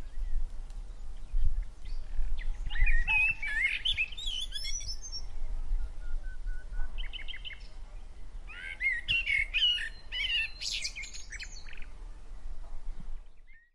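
Birds chirping and singing in bouts of quick, high chirps and short warbled phrases, over a low steady rumble; it cuts off near the end.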